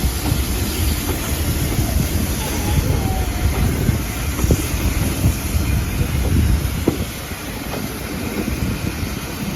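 Railway carriage running on the rails: a steady low rumble with occasional wheel knocks and wind on the microphone, easing a little in level after about seven seconds.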